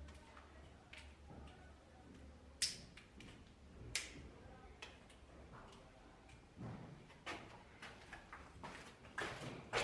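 Scattered sharp knocks and clicks: two loud ones about two and a half and four seconds in, then a quicker run of lighter knocks in the last three seconds.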